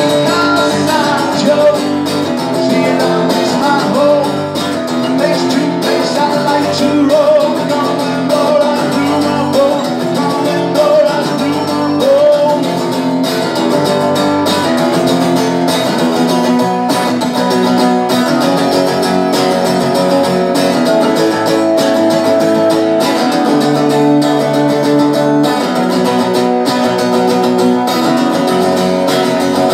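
Live indie rock performance with strummed guitar to the fore, playing continuously at a loud, steady level.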